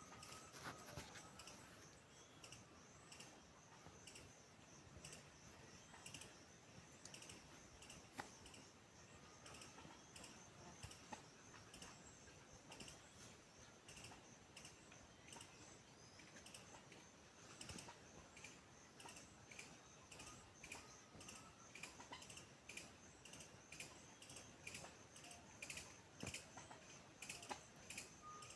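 Faint nature sounds: a steady high-pitched insect trill with small bird chirps scattered through it, and many light irregular clicks.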